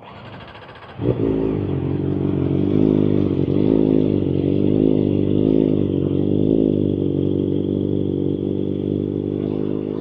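Kawasaki Ninja ZX-4RR's inline-four engine running while the bike is ridden. It turns loud suddenly about a second in, and its pitch rises and falls gently with the throttle.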